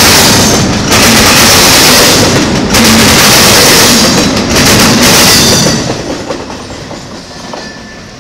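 Double-stack intermodal freight train's well cars rolling past close by: a loud rumble and rattle of wheels on rail, the noise dipping briefly about every two seconds. The noise fades quickly from about six seconds in as the end of the train passes and moves away.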